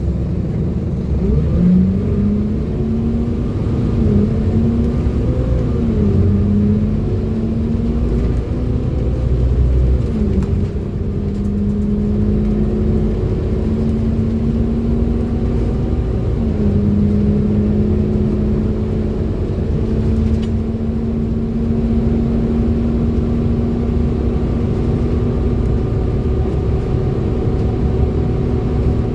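Bus engine and driveline running with the droning, vacuum-cleaner-like whine that bus enthusiasts call a 'hoover'. The whine rises and falls several times through the first ten seconds as the bus pulls away and changes gear, then holds at a steady pitch while it cruises, dipping briefly once around the middle.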